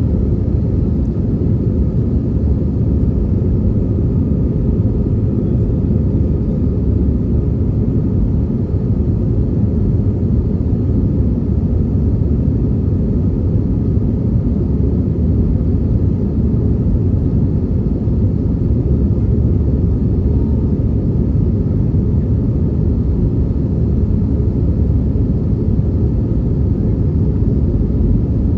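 Steady low rumble of an Airbus A319's engines and rushing air, heard inside the passenger cabin from a window seat during the takeoff flight. It holds an even level throughout, with no change in pitch.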